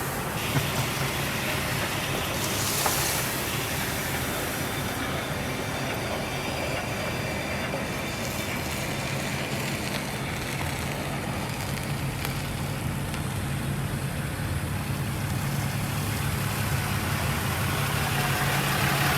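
A vehicle engine running steadily under a rumbling, grinding noise as the 1974 Ford F-250 is pulled out of the swamp with its brakes seized, getting gradually louder toward the end.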